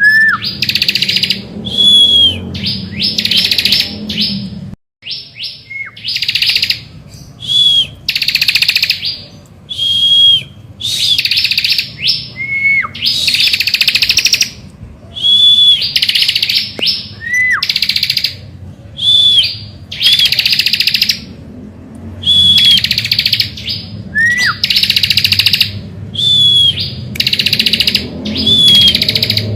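A ciblek (prinia) singing in full, energetic song, as used in a pancingan recording to set off other ciblek. It repeats buzzy, trilling phrases about every second, each with a clear whistled note and often a short note sliding down at the end. There is a brief break about five seconds in.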